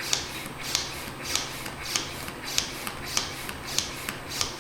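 Hand pump drawing the air out of a vacuum storage bag: a short hiss of air with each stroke, about one and a half strokes a second.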